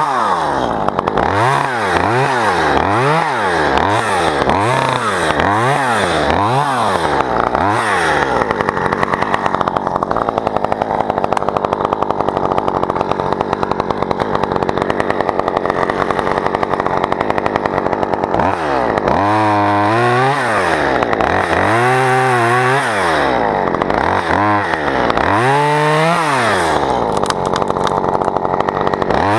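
Two-stroke chainsaw being revved up and down about once a second, then held at high speed for about ten seconds, then revved up and down again.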